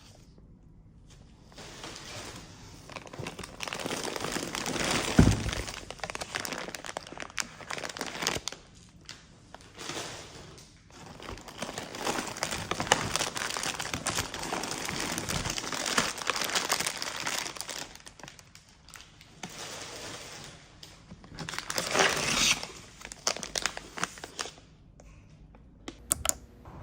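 Packaging being handled and unwrapped by hand: crinkling, rustling and some tearing in irregular stretches, with a sharp knock about five seconds in.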